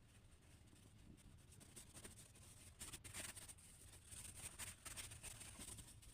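Faint scratching of a drawing tool on paper in short strokes, which come thicker from about three seconds in.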